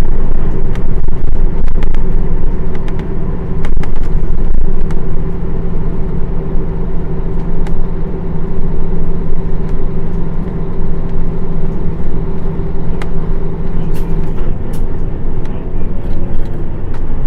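Nissan Diesel PF6 diesel engine of a Fuji-bodied KL-UA452KAN route bus, heard from inside the cabin while the bus is driving. It holds a steady note for most of the time and changes near the end, with scattered clicks.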